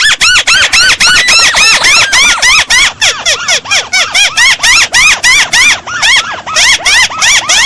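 Crake (burung tikusan) call: a loud, rapid run of quick squeaky notes, about five a second, each rising and falling in pitch, played as a lure call for trapping.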